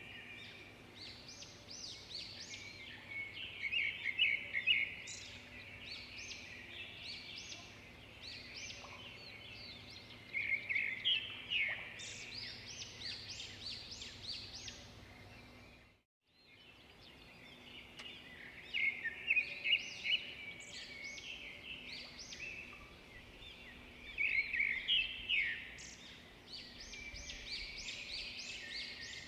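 Birds chirping in quick, repeated bouts of high calls over a faint steady background noise. The sound cuts out briefly about sixteen seconds in, then the chirping resumes.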